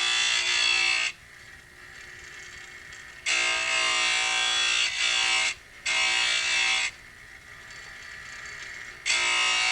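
Power saw cutting ceramic tile in short spells: the motor's whine and the grinding hiss of the blade start and stop sharply, four times, with a quieter hum between cuts.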